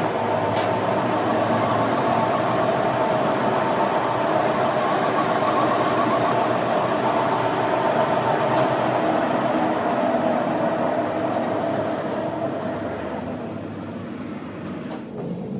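A machine running steadily with an even mechanical noise, which becomes quieter over the last few seconds.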